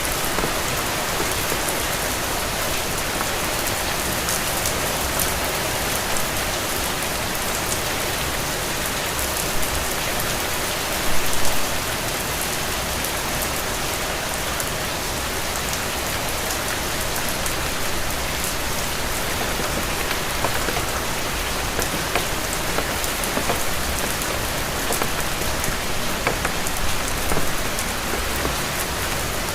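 Steady rain falling, a dense even hiss with many small close drop ticks, and a brief louder patch of drops about eleven seconds in.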